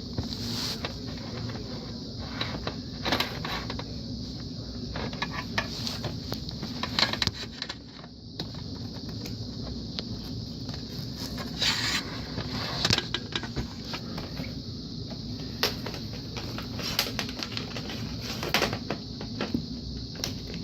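Handling noises from a new box fan and its packaging: scattered light clicks, knocks and rustles at an irregular pace, over a steady background hiss.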